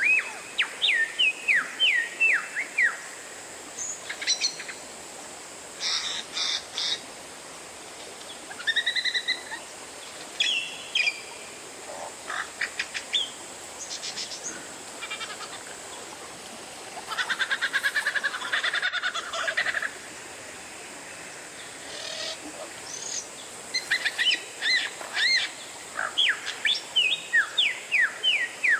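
Oriental magpie-robin (kacer) singing: varied whistled phrases and sharp chirps in bursts with short pauses, and a fast rattling trill about two thirds of the way through, over a steady background hiss.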